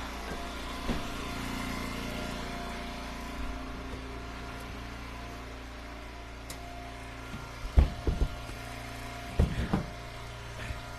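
Eastonmade Ultra wood splitter's engine running steadily. Near the end come a few loud knocks of split ash firewood pieces, in two quick clusters.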